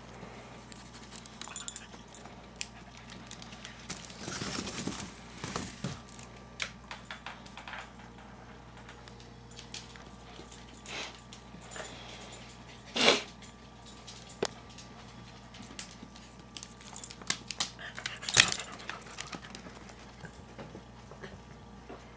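A pet's collar tags jingle and clink in scattered, irregular bursts as the animal moves about. There are light knocks and clicks among them, and a few louder moments: one about four to six seconds in, one near the middle and one later on.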